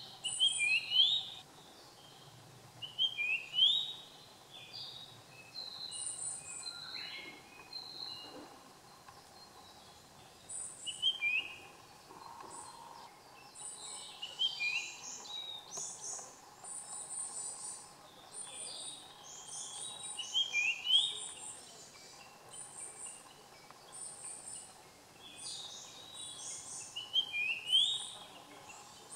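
Japanese grosbeak singing: clear whistled phrases that rise in pitch, repeated every few seconds, with short high chirps in between.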